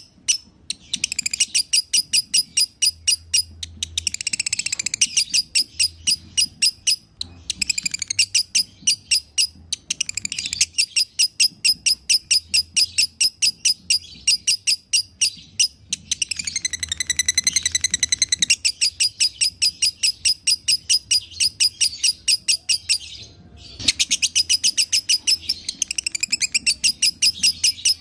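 Lovebird singing the long, chattering 'ngekek' song: long runs of rapid, shrill, evenly repeated chirps, several a second, with a brief pause a little after 23 seconds.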